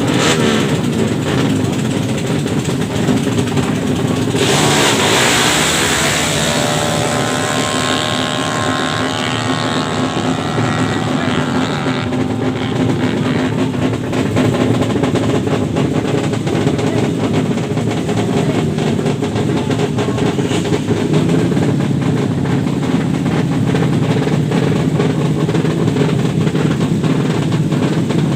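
Motorcycle engines running and revving, with a loud rush of noise about four seconds in and an engine note climbing in pitch over the following several seconds.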